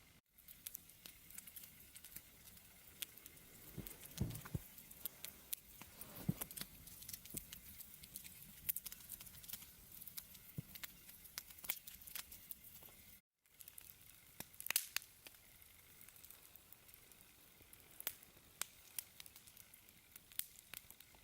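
Wood campfire crackling: faint, irregular snaps and pops with a few louder cracks. The sound drops out briefly about a third of the way in.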